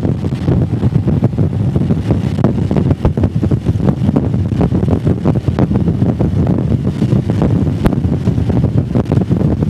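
Motorcycle riding at road speed, its engine running steadily under wind buffeting the microphone.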